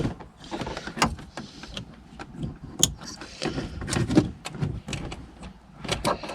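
Hand-handling noise at the tail-light wiring: a string of irregular plastic clicks, knocks and rustles as the connector is worked on.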